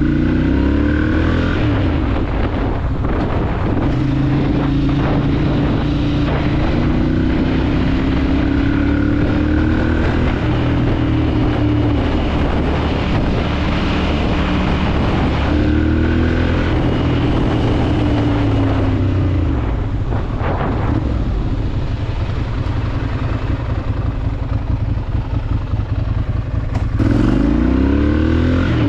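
Ducati Monster 796's air-cooled L-twin engine running on a ride, its pitch rising as it accelerates through the gears and falling again as it slows, over and over.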